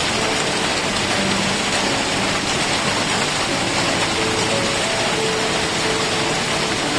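Steady rain falling with a dense, even hiss, with slow background music of soft held notes underneath.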